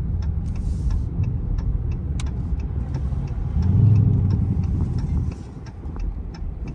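Dodge Charger R/T's 5.7 HEMI V8 running low while driving, heard from inside the cabin. The engine swells louder about four seconds in and eases off soon after. A steady ticking, about three a second, runs under it.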